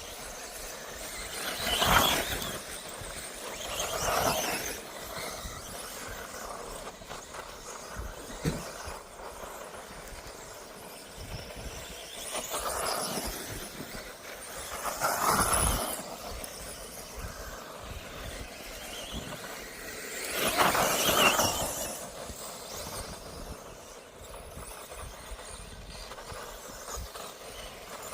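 1/10-scale electric 2WD off-road RC buggies whining past as they run laps, in about five swells that rise and fade. The loudest passes come about two seconds in and again about twenty seconds in.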